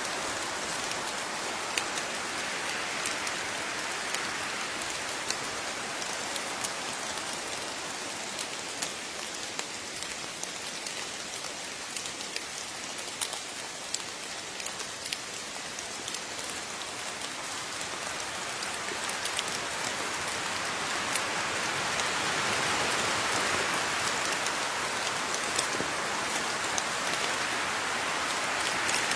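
Steady rain falling, with scattered sharp drips of individual drops landing on a surface; the rain swells louder in the second half.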